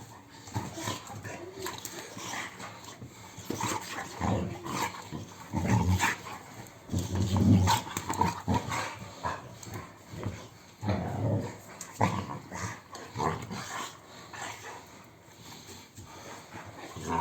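A dog growling in irregular bursts, mixed with short barks. The loudest growls come about six seconds in, seven to eight seconds in and around eleven seconds.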